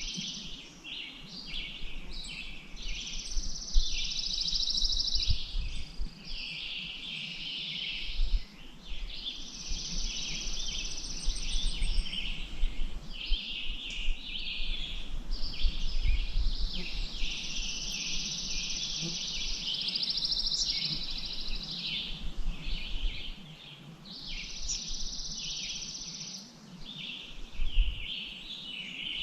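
Many small birds chirping and singing almost without pause, their calls overlapping, over an uneven low rumble.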